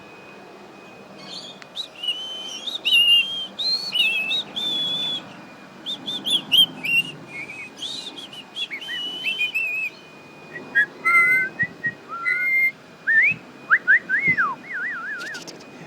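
Rainbow lorikeet calling in a run of short squeaky whistles and chirps, the later ones lower with rising and falling slides.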